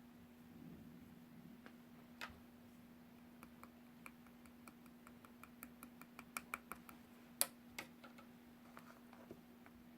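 A series of light, sharp clicks and taps, irregular and thickest in the second half, over a faint steady hum.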